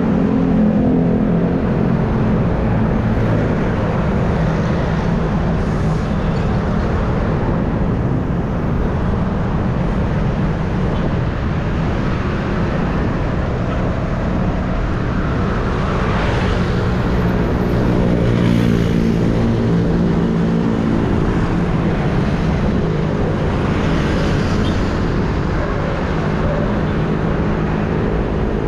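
Steady road noise from riding along a highway: the hum of motor vehicle engines, with wind noise on the microphone and traffic going by.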